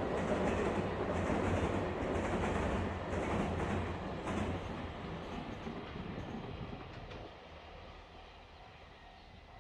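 Freight train running along the line, a steady rumble with a few wheel clicks over rail joints, fading steadily as it moves away.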